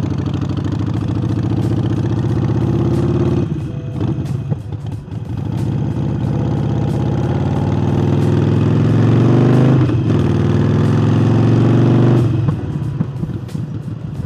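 Harley-Davidson Forty-Eight's air-cooled 1200 cc V-twin, fitted with a new air intake, accelerating hard under load, rising in pitch through the gears with a brief let-off for a gear change twice, then the throttle closed near the end.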